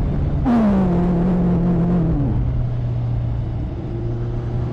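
Motorcycle engine running on the move, with a rush of wind. About half a second in its pitch falls and holds, then drops lower again about two seconds in, as the rider eases off the throttle.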